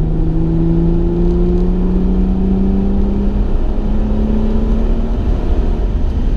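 Chrysler Crossfire's V6 engine pulling under acceleration while driving, its note rising steadily in pitch through the gear, over low road rumble.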